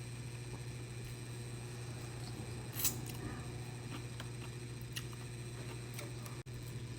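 A few small clicks and crackles of eating and handling food close to the microphone, the loudest about three seconds in, over a steady low hum.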